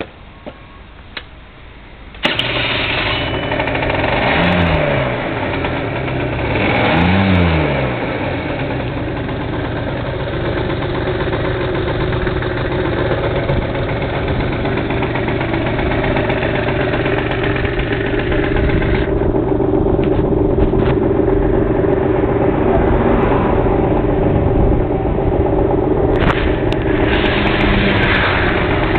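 A Piaggio Ice scooter's small engine starts after a couple of clicks, is revved up and down twice, then settles into a steady idle.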